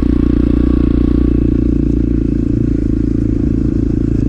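Motorcycle engine running at a steady speed, picked up by a mic inside the rider's helmet.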